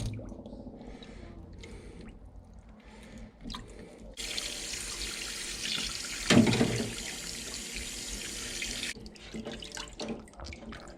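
Water tap turned on and running into a sink for about five seconds, then shut off abruptly, with a loud knock partway through; small handling clicks before the water starts.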